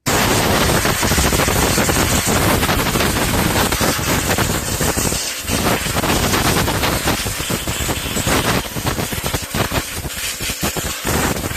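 Compressed-air blow gun blasting a mouse nest out from under a riding mower's engine shroud: a loud, rough hiss with rapid crackling and rattling, starting suddenly and easing off briefly about five seconds in and again near the end.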